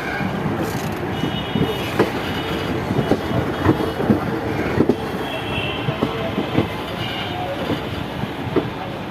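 Local passenger train running past at speed: a steady rumble of wheels on rails, broken by repeated sharp clacks over the rail joints, with faint high wheel squeal coming and going.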